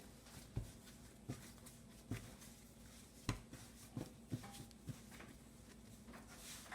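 Yeast dough being kneaded by hand on a work surface: a series of soft, irregular thumps as it is pressed and turned.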